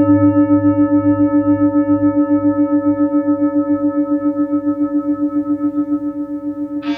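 Tibetan singing bowl ringing on after a strike: a low hum with higher overtones that pulses several times a second and fades slowly.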